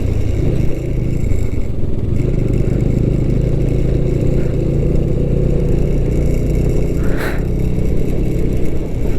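Bajaj Dominar motorcycle engine running steadily while riding, mixed with wind and road noise.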